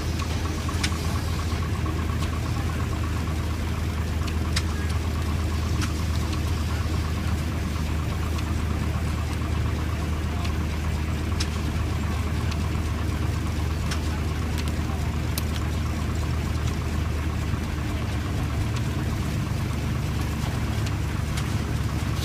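Single-cylinder Frick steam traction engine running steadily while it drives a shingle mill by belt, with a constant low drone and a few sharp clicks scattered through.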